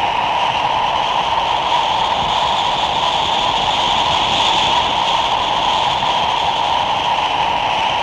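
Designed horror sound effect: a steady rushing, wind-like noise drone, its upper part rising slightly and swelling around the middle.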